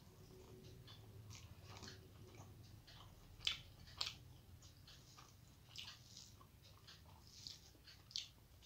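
Quiet chewing and mouth smacks of someone eating rice with fried red amaranth leaves by hand, with sharper smacks about three and a half and four seconds in.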